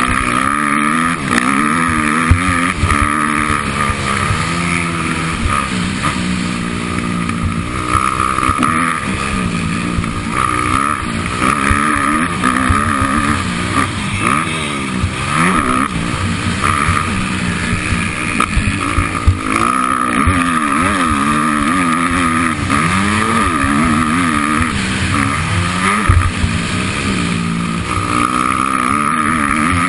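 Motocross bike engine revving up and down over and over as it is ridden hard, its pitch rising and falling every second or two with throttle and gear changes.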